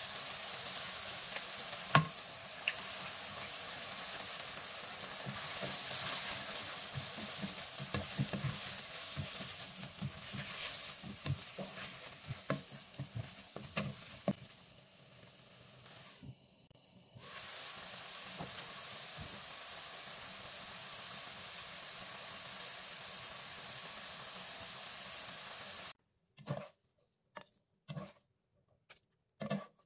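Eggs and sliced angled luffa gourd sizzling in a nonstick frying pan, with a spatula scraping and tapping against the pan as they are scrambled. About four seconds before the end the sizzling stops, leaving only a few short scrapes.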